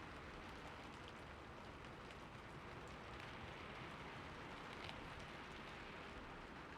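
Steady, faint rain falling, with scattered individual drop ticks over an even patter.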